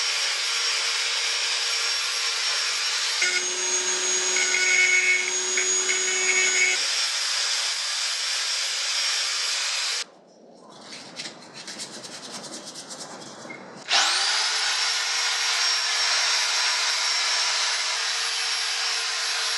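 High-speed rotary tool with a wire wheel, whining steadily as it scrubs rust off a metal motorcycle part. For a few seconds the pitch drops and the scraping turns coarser under load. About halfway through the tool stops, leaving quieter handling sounds, then it starts again with a rising whine that settles back to a steady run.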